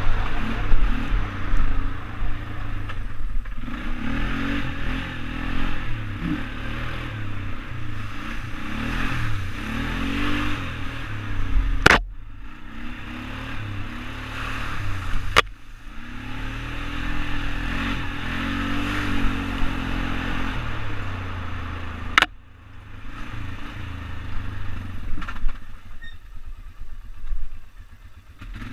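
ATV engine revving up and down under riding, with a hiss of wind or terrain noise over it. The sound is broken by three sharp clicks, and the engine is quieter near the end.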